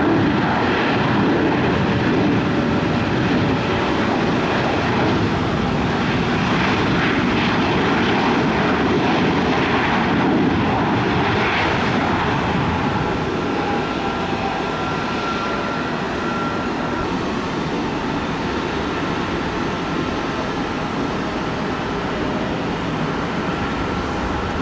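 Airliner engines running, a loud, even rush of noise with a faint steady whine, easing off a little about halfway through.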